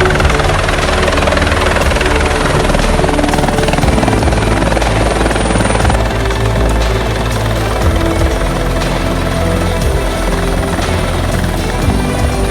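Airbus EC120 helicopter running steadily: the whine of its single turbine engine and the beat of its rotors, with music mixed over it.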